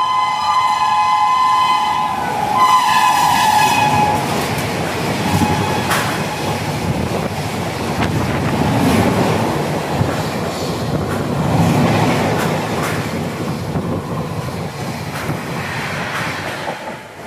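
An Indian Railways express train's locomotive air horn sounds a long blast as the train approaches, cutting off about four seconds in. The train then runs through close by at speed, with a heavy rumble and the clatter of wheels over the rail joints.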